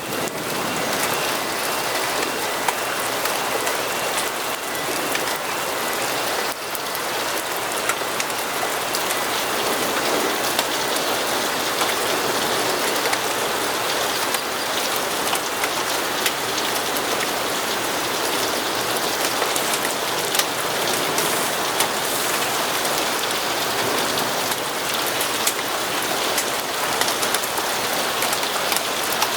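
Steady rain falling: a dense, even patter with scattered sharp ticks of single drops.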